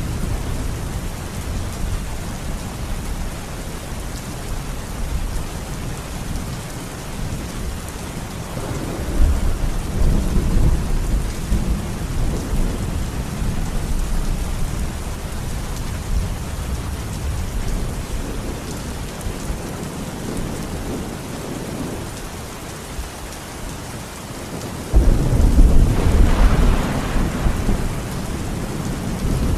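Heavy rain falling steadily while thunder rumbles. A peal swells about nine seconds in, and a sudden loud crack of thunder comes near the end, rolling on for several seconds.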